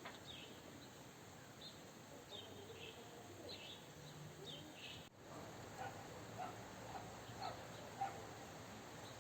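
Steady hiss of rain with small birds chirping, short high chirps over the first half. The sound drops out briefly about five seconds in, then the rain hiss goes on with scattered short chirps or drips.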